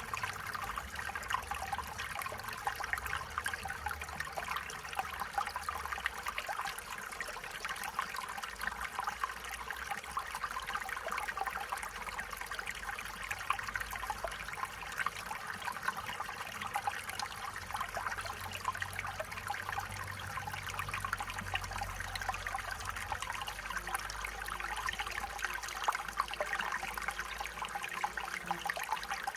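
Stream water running and trickling steadily over stones, a continuous babble of small splashes with a low rumble underneath.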